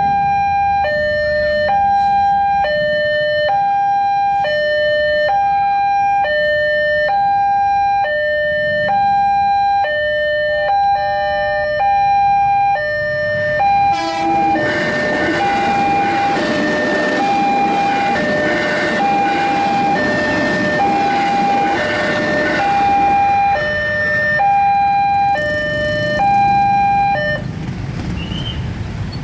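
Railway level-crossing alarm on a Siemens crossing sounding a two-tone high-low signal, alternating about once a second, the replacement for the crossing's original American-style alarm. About halfway through a passing train's rumble and rush rises under it for several seconds, and the alarm stops a couple of seconds before the end.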